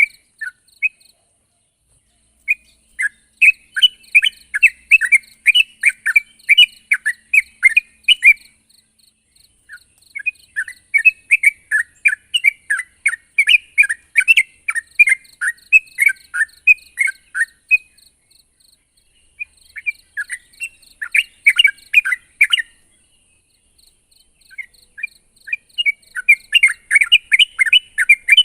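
Yellow-vented bulbul (trucuk) singing vigorously, in runs of rapid, quickly sweeping notes a few seconds long with short pauses between them.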